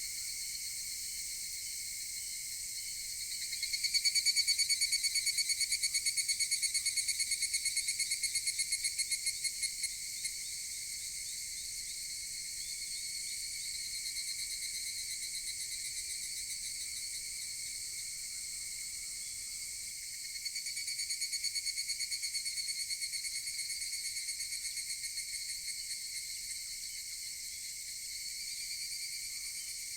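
Higurashi (evening cicadas) calling: a steady high chorus, with a nearer cicada's rapid pulsed call starting about four seconds in and fading out by about ten seconds, and another starting about twenty seconds in and fading by about twenty-six.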